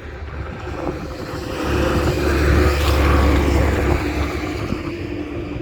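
A motor vehicle's engine running with a steady low hum, growing louder from about two seconds in and easing off near the end.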